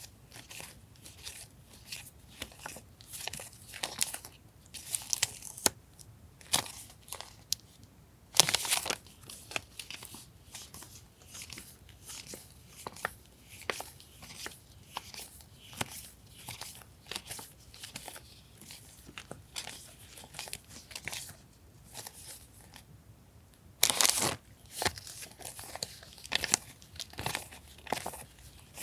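Paper and plastic stationery packaging handled by hand: irregular crinkling and rustling with small taps and clicks. There are two louder spells of crinkling, about eight seconds in and again later on.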